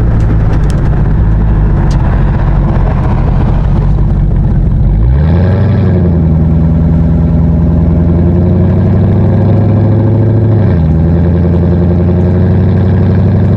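Exhaust of a supercharged LS3 V8, picked up at the rear number plate. For the first five seconds it is a heavy low rumble. The note then rises and settles to a steady, even drone at moderate revs, dipping briefly near ten and a half seconds before holding steady again.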